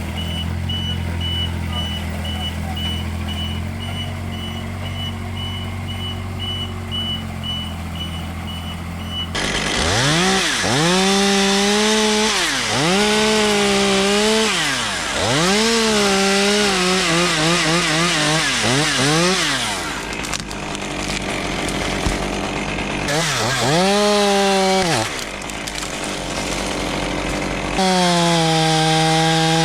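An engine idling steadily with a fast high beeping, then from about nine seconds in a chainsaw revving up and down repeatedly as it cuts, with brief pauses between runs.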